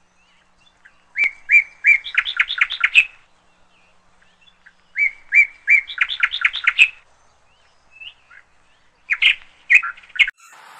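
A small bird singing: two phrases of clear chirps, each starting with a few spaced notes that speed up into a quick run, then a few more chirps near the end.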